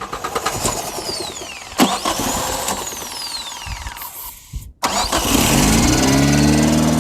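Chevy Tracker 8-valve four-cylinder engine cranking on the starter with an even rhythmic churn, after a fresh set of spark plugs fitted to cure a misfire. The sound cuts out briefly near the end, then the engine catches and runs, its speed rising and holding steady.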